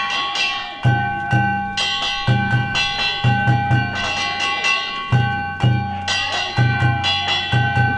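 Danjiri festival music (hayashi): a taiko drum beating a quick, repeating rhythm of paired strokes while hand-struck metal gongs (kane) ring steadily over it.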